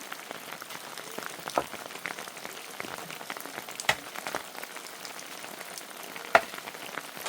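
Steady rain pattering, a dense crackle of many small drop impacts, with a few louder sharp taps, the loudest near the end.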